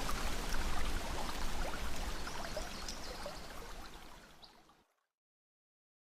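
Flowing river water rushing steadily, with small splashes and trickles. It fades out from about three seconds in and is gone just before five seconds, leaving silence.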